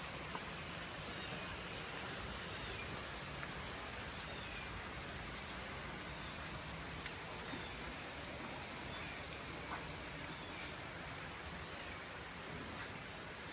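Steady, even outdoor hiss like light rain, with scattered faint ticks and a few faint, short, high chirps.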